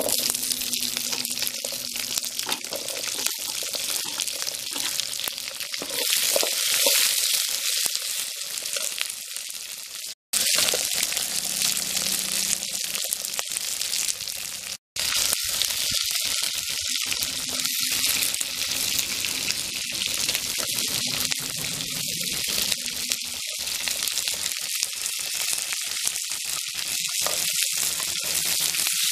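Shallots, green and dried red chillies and coriander seeds sizzling in hot oil in an iron kadai, stirred with a steel slotted spoon that clicks against the pan. The sizzle is loud and steady, broken twice by a moment of silence.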